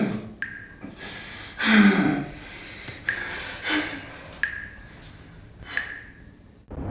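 A person's heavy, ragged breathing with gasps, one of them voiced about two seconds in, after a violent struggle; a few short faint clicks fall between the breaths.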